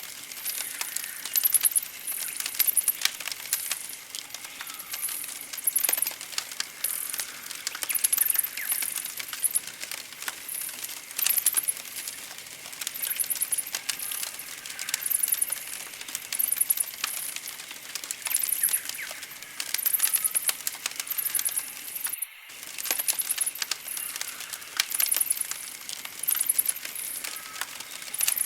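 Campfire crackling with many small sharp pops, over a very high-pitched chirping that repeats about once a second and faint birdsong. The sound cuts out briefly about three-quarters of the way through.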